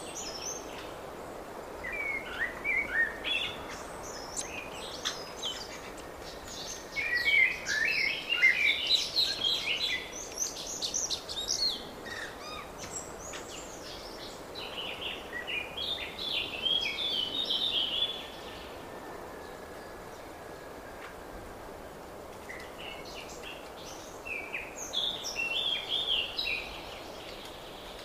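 Songbirds singing in spring woodland: several bursts of quick, high song phrases a few seconds apart, over a steady background hiss.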